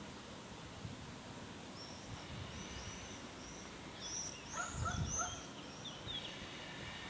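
Small bird chirping: a run of short, arched, high-pitched notes that grow louder about two-thirds of the way through, over steady outdoor background noise, with a brief low rumble around the loudest notes.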